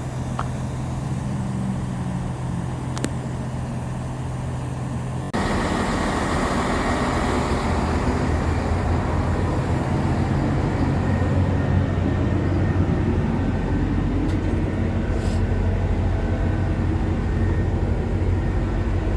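Train hum: a steady low hum, then after a sudden cut about five seconds in, a louder hum with a constant rushing noise.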